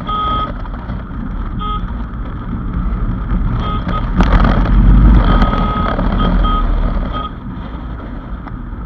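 A vehicle horn beeping in short repeated toots over the low rumble of engines and road traffic, which swells loudest about halfway through.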